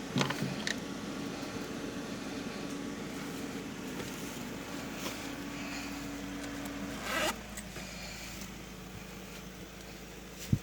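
Car engine idling steadily, with a zipper pulled once about seven seconds in and a sharp click near the start.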